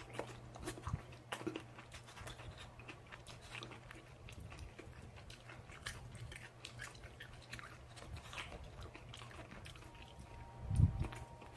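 A person chewing food close to the microphone, with scattered small wet mouth clicks. There is a brief louder low sound near the end.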